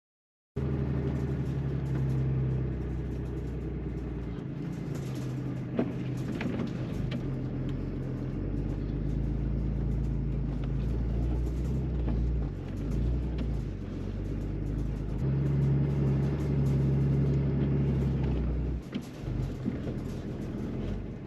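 Pickup truck engine running as the truck drives slowly along a rough dirt trail, its engine note shifting a few times with speed, with a couple of sharp knocks about six seconds in.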